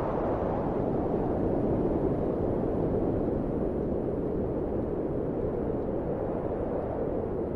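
Wind blowing as a steady rush of noise, its higher hiss easing off in the first second to leave a lower, duller rush.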